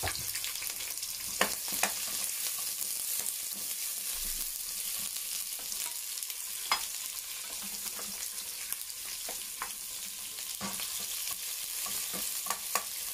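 Sliced onions and green chillies sizzling in ghee on low flame in a pressure cooker and a kadai, stirred with a spoon that knocks sharply against the pan a few times.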